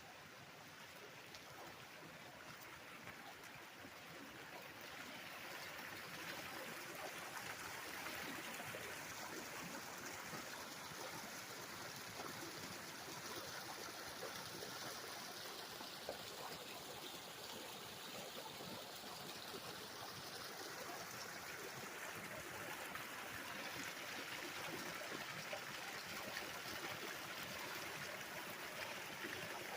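Small stream running steadily, a continuous rush of flowing and trickling water that grows louder over the first several seconds and then holds.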